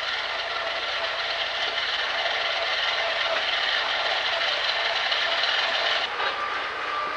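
Engine of a snow-clearing machine running steadily with a rattling clatter. The sound thins out about six seconds in.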